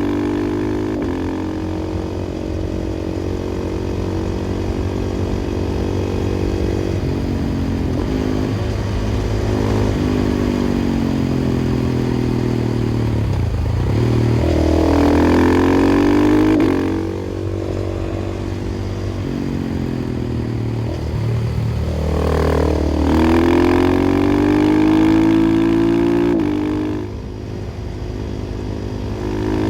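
KTM 500 EXC-F's single-cylinder four-stroke engine through an FMF exhaust, ridden hard on the road. The engine note climbs with each gear and drops back as the throttle closes, with sharp surges of acceleration about halfway and about three-quarters of the way through.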